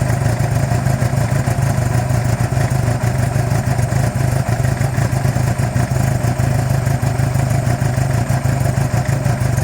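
Suzuki GSX-R600 K9's 599 cc inline-four engine running at a steady idle, with an even note that does not rise or fall.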